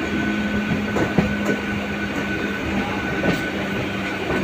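Mumbai suburban local train running, heard from inside the coach: a steady rumble of the wheels on the track under a steady hum, with a couple of knocks from the wheels over the rails.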